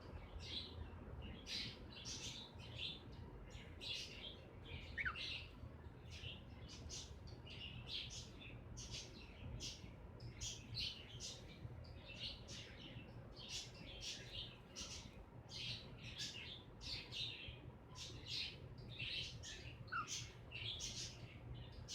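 Cockatiels making many short, scratchy high sounds, one or two a second, with two brief falling whistled notes, about five seconds in and near the end, over a faint steady hum.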